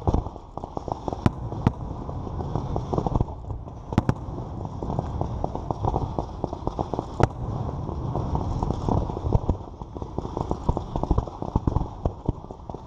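Fireworks display: a dense, continuous crackle of pops and reports from comets and mines, with several much louder sharp bangs, about a second in, near four seconds and about seven seconds in.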